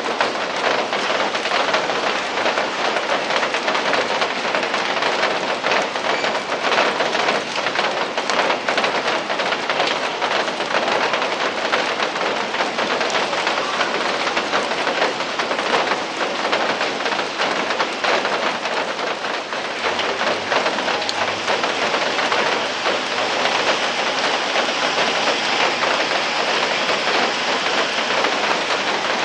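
Steady rain, a dense hiss of many drops landing on surfaces. About two-thirds of the way through it becomes smoother and higher-pitched, with fewer separate drop sounds.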